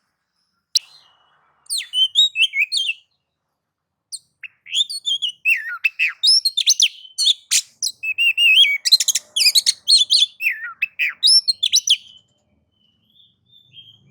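Oriental magpie-robin (kacer) singing a loud, varied song of whistles, rapid chattering notes and quick gliding phrases. It starts with a short burst of phrases about a second or two in, then runs almost without a break until near the end. This is the excited singing style that bird keepers call nagan and ngobra.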